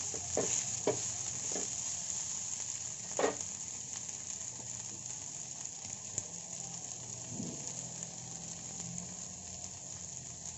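Chicken and vegetable samosa filling sizzling in oil in a non-stick frying pan. A wooden spatula scrapes and stirs a few times in the first few seconds, with one stronger stroke a little after three seconds. After that the sizzle goes on steadily.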